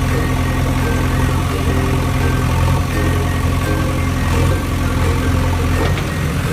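Heavy vehicle engine running steadily at a low, even drone, a construction-machine engine sound effect.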